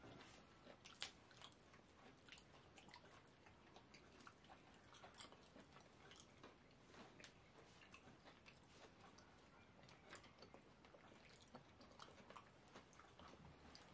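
Faint chewing and wet, sticky mouth sounds of people eating fufu and okro soup with their hands: many small irregular clicks and smacks.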